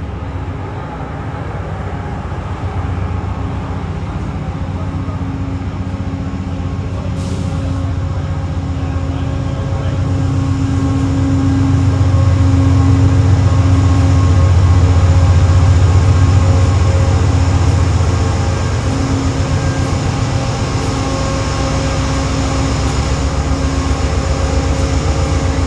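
Amtrak passenger train standing at the platform, a steady low electric hum and rumble that swells louder about halfway through, then eases.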